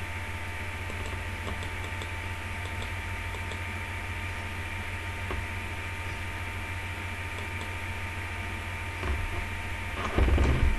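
Steady electrical hum and hiss of background noise, with a few faint ticks in the first few seconds and a short low thump near the end.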